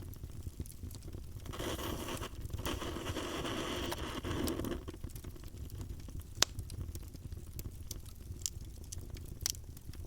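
Wood campfire crackling, with scattered pops, one sharp pop about six seconds in, and a stretch of hissing in the first half.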